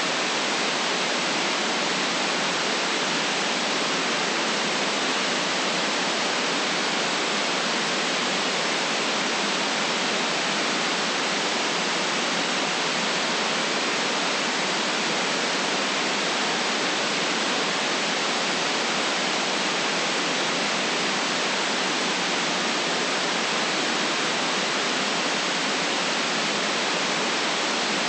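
Steady white noise: an even, unchanging hiss with no deep rumble and no separate sounds in it.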